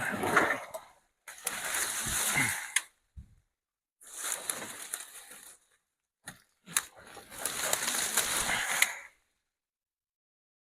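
Cut tree branches and brush being pulled off a load and thrown onto a burn pile, rustling and crackling in several separate bursts of a second or two each, with a few sharp snaps.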